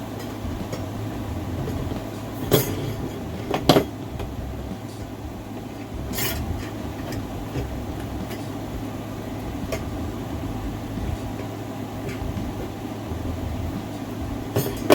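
Steady low room hum, broken by a few sharp taps and knocks of craft materials being handled and set down: two a few seconds in, one about six seconds in, and one near the end.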